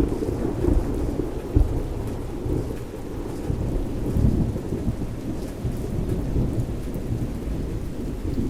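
Steady rain falling, with low rolling thunder rumbling underneath.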